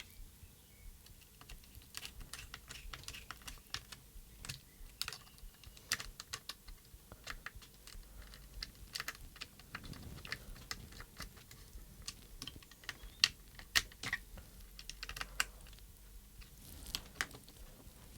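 Irregular small clicks and taps of plastic and metal parts being handled and fitted inside a RadioMaster Zorro handheld radio transmitter during a gimbal swap, quick and light like typing.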